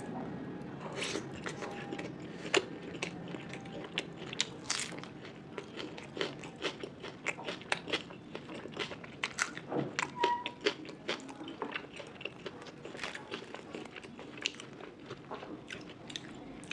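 A person chewing food close to the microphone: an irregular stream of wet smacks and sharp clicks from the mouth, several a second, with the occasional crunch.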